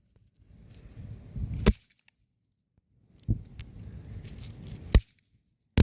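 Bang snaps (snappers) going off one at a time: four sharp pops, the first about two seconds in and the last at the very end, with low rustling between them.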